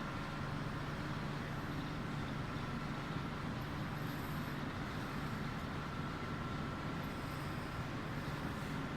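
Tunnel car wash machinery running: a steady low mechanical hum of motors and pumps, with a thin high whine that drops out for a couple of seconds in the middle.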